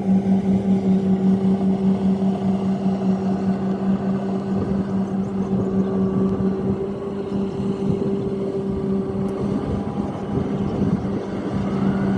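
Rice combine harvester running steadily: a strong, even engine hum with machinery noise on top. It pulses rhythmically for the first few seconds, then smooths out.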